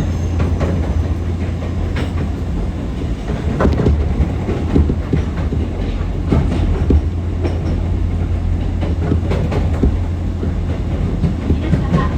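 Nankai 6200 series resistance-controlled electric train running, heard on board: a steady low rumble with irregular clacks as the wheels pass over rail joints and points.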